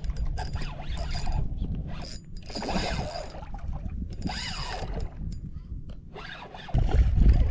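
Penn 2500 spinning reel clicking and whirring as line is reeled in against a hooked redfish. A loud low rumble cuts in near the end.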